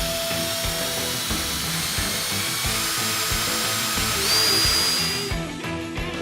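A power drill's steel-alloy bit cutting into a hardened grade 5 steel bolt at high speed, a steady high-pitched grinding with a thin whine that rises about four seconds in, then stops about five and a half seconds in. Background music with a steady beat plays throughout.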